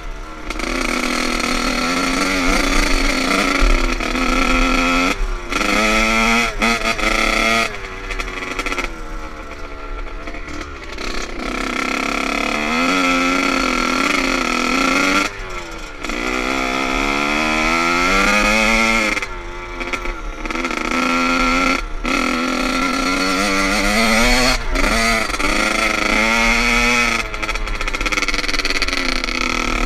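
Motocross dirt bike engine revving hard and easing off over and over, its pitch climbing again and again with brief cuts in between.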